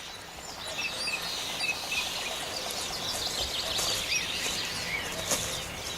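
Many small birds chirping and calling in quick, overlapping bursts over a steady outdoor background.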